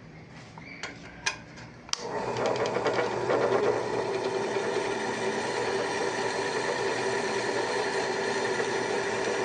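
A few sharp clicks, then a small machine is switched on about two seconds in and runs steadily with a fast, even rattle and a steady hum.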